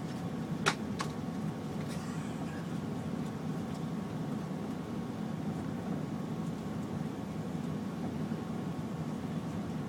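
Steady airliner cabin noise inside an Airbus A380: a low, even rumble with a faint steady hum above it. A sharp click a little under a second in, followed by two fainter clicks.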